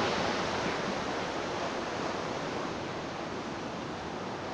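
Heavy sea surf: strong storm waves breaking and rushing on the shore in a steady roar of water, easing slightly towards the end.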